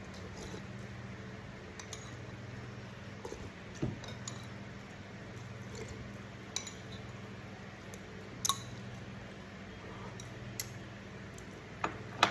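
Spoon and cutlery clinking against a bowl and plate during a meal of soup, in scattered single clinks, the loudest about two-thirds of the way in and near the end, over a steady low hum.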